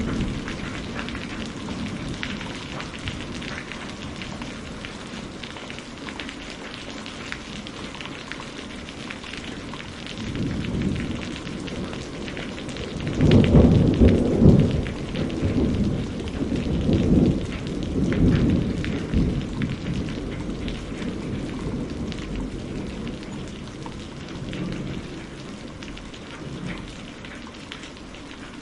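Steady rain pattering. A low rumble of thunder swells in about a third of the way through and rolls on for several seconds, loudest near the middle.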